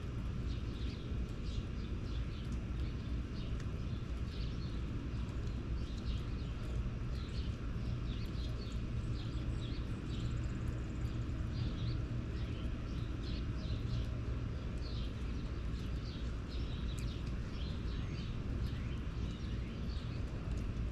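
Small birds chirping over and over in short, high calls, over a steady low rumble.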